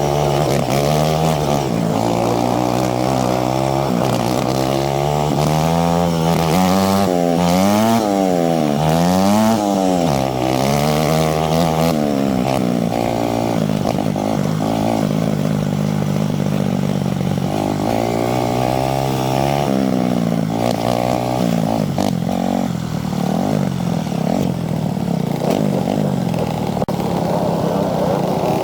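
Two-stroke dirt bike engine, a Yamaha YZ250, being ridden hard: the revs climb and drop again and again with throttle and gear changes. It swings quickly up and down a few times early on, then runs steadier and lower through the middle.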